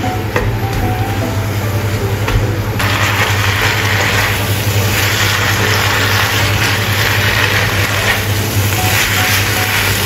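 Amaranth leaves and fermented bean curd sauce sizzling in a hot wok while a wooden spatula tosses them; the sizzle gets louder about three seconds in.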